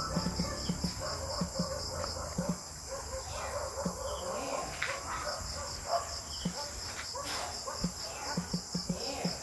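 Insects, crickets by the sound of it, chirping in a steady pulsing trill of about five chirps a second, which pauses for a few seconds midway. Soft irregular clicks sound underneath.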